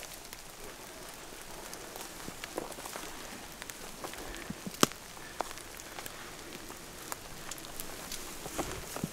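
Light rain pattering steadily, with irregular sharp ticks of single drops, one louder about five seconds in.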